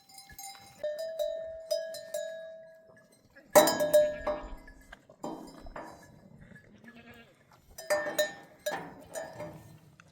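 Sheep or goat flock bleating, several loud calls in turn, the loudest about three and a half seconds in, with animal bells clinking faintly.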